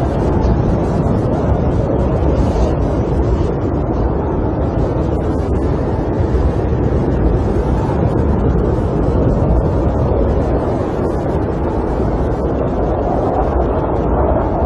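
Snowstorm wind against a camper, heard from inside as a steady low rumble that swells slightly now and then.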